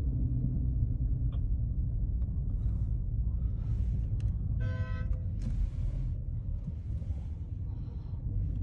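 Steady low rumble of a car driving on the road, with several rushes of noise from traffic. A short car horn honk sounds about five seconds in.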